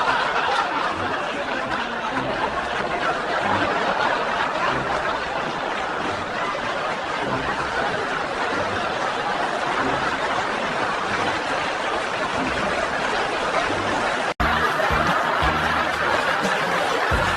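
Many people laughing and chuckling together without a break. It cuts out for an instant about fourteen seconds in, then carries on.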